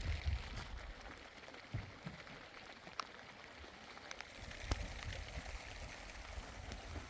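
Steady rain with a few sharp taps, and low rumbling near the start and again past the middle.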